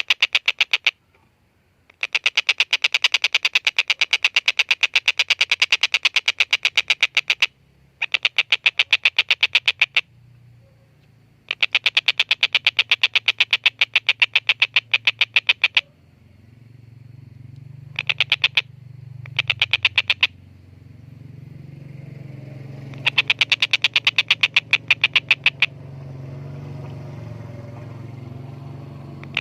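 Tengkek buto (collared kingfisher) giving its long chattering call: runs of rapid harsh notes, about a dozen a second, each run lasting a few seconds. Shorter bursts come in the middle, and a low steady hum rises in the background in the second half.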